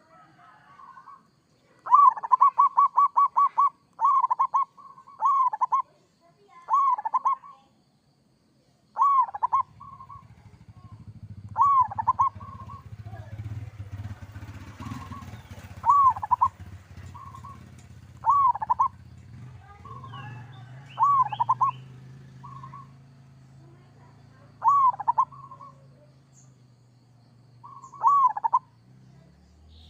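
Zebra dove (perkutut) singing: a rapid run of short coo notes about two seconds in, then short cooing phrases repeated every two seconds or so. A low steady rumble sits underneath from about a third of the way in.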